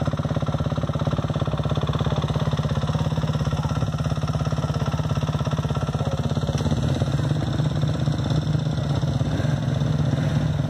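Motocross motorcycle engines running steadily at a fast, even throb, with no revving.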